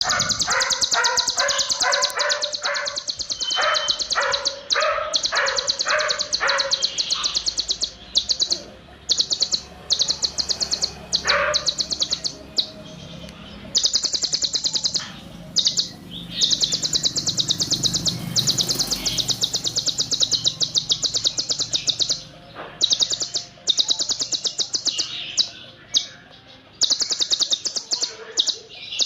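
Konin (kolibri ninja sunbird) singing a dense, very rapid high-pitched song in long runs broken by short pauses, with a slower pulsing lower phrase in the first several seconds.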